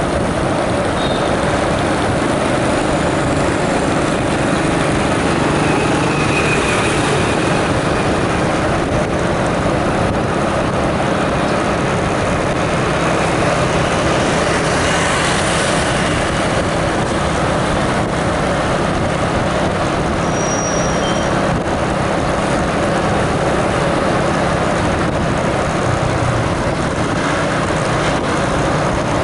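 Steady, loud noise of a running vehicle at an even level.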